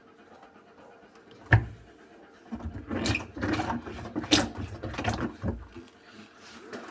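A single sharp click, then about three seconds of irregular knocks and bumps from something being handled.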